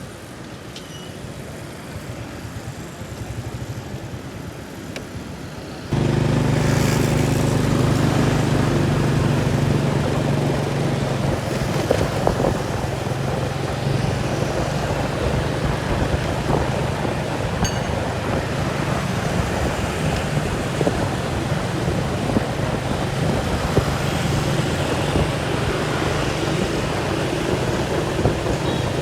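Rumbling wind noise, then about six seconds in an engine runs steadily at an even pitch.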